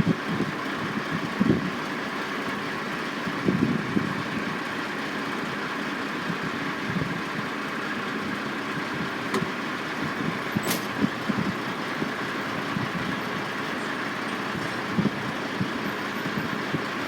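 Construction-site machinery din: heavy vehicle and crane engines running steadily, with a few short low rumbles and one sharp click about ten seconds in.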